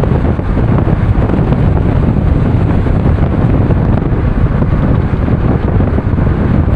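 Loud wind buffeting the microphone, a continuous low rumble with no clear tones.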